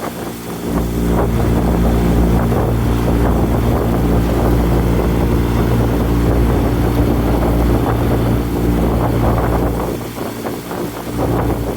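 Motorboat engine running steadily under way, with a deep wind rumble on the microphone that sets in about a second in and eases near the end.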